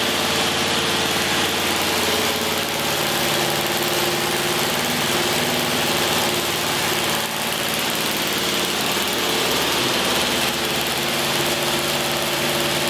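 Rebuilt Chevrolet 307 small-block V8 running steadily on an engine dyno through long-tube headers, holding its break-in run.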